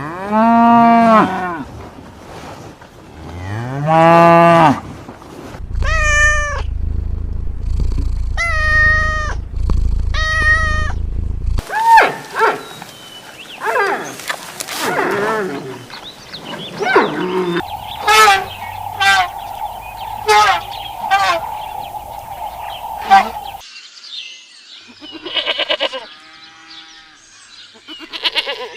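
Cattle mooing: two long, loud calls in the first five seconds, followed by a run of shorter, higher calls and other scattered calls.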